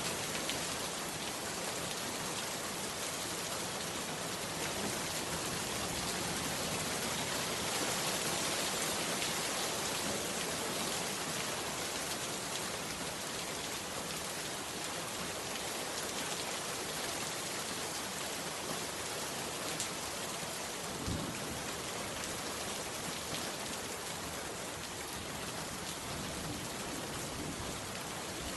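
Heavy rain falling steadily: a dense, even hiss of drops with scattered individual drop impacts and a brief low thump about three-quarters of the way through.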